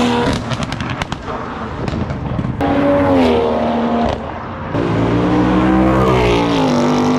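Car engine revving at a car show, its pitch rising and falling several times, with a quick run of sharp exhaust pops and crackles in the first second.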